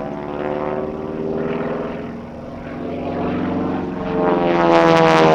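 North American AT-6 Texan's Pratt & Whitney R-1340 Wasp radial engine and propeller during an aerobatic pass, growing louder toward the end with the pitch sliding down as it passes. Near the end a harsh propeller rasp is heard, the sound of the propeller tips going supersonic.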